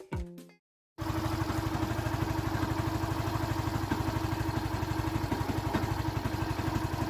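Yamaha Factor 125's single-cylinder engine idling steadily, with an even pulse of about ten beats a second, starting about a second in after music ends.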